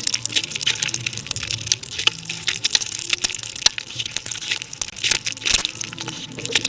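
Close-miked eating sounds of someone chewing puri with curry, played back sped up: a fast, dense run of wet clicks and mouth smacks.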